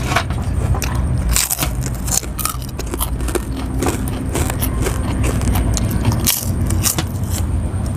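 Close-up eating sounds: biting and chewing crisp food and fresh vegetables, with irregular sharp crackles and crunches over a steady low rumble.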